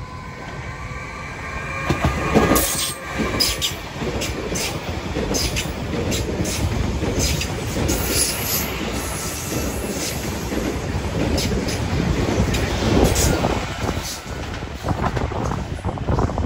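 Electric multiple-unit passenger train passing close by at speed, its wheels clattering over rail joints and points in a run of sharp clicks over a steady rumble of wheels on rail. A faint whine at the start fades as the train arrives.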